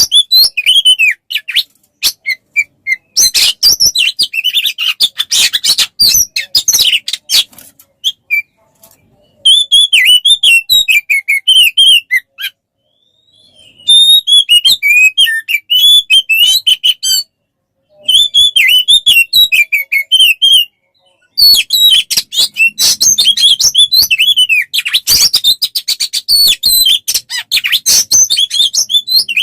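Songbird song from a birdkeeper's masteran recording for training kacer: fast chattering and chirping phrases, broken by a few short pauses.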